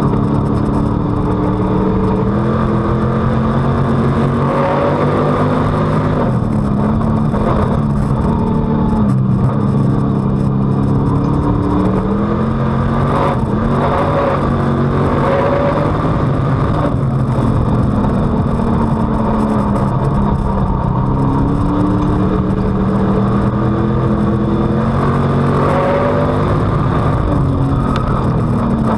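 On-board sound of a dirt-track street stock race car's V8 engine at racing speed. Its pitch climbs as it accelerates, then drops off, over and over in cycles several seconds long.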